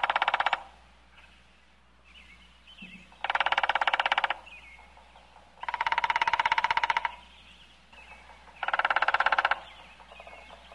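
Woodpecker drumming: three rapid rolls of about a second each, evenly spaced every two to three seconds, plus the tail of one just as it begins. Faint bird chirps sound between the rolls.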